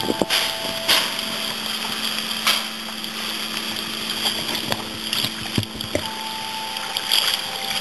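Water splashing and lapping against a moving kayak's hull, with irregular sharp splashes over a steady low hum.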